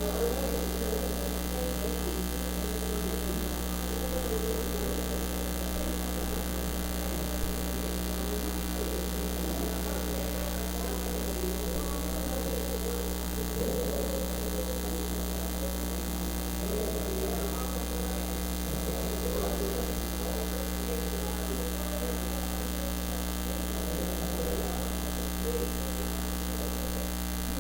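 Steady electrical mains hum with a buzzy edge, a fault in the sound system's recording feed, running under faint, muffled, indistinct sound.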